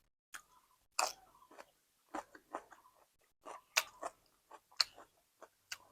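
A person chewing food close to the microphone: irregular soft crunches and mouth clicks spaced with short quiet gaps.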